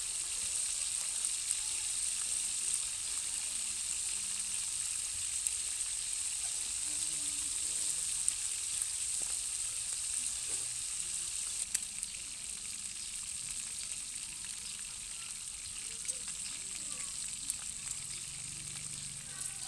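Food frying in hot oil in a pan: a steady sizzle with scattered sharp pops.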